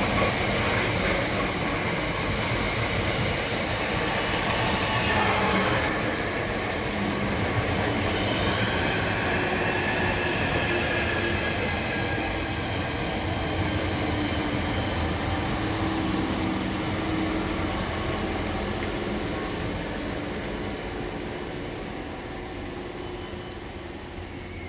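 Electric multiple-unit passenger train running slowly past a station platform: a steady rumble of wheels on rail with some thin, high wheel squeal that comes and goes. It fades over the last few seconds as the last carriage goes by.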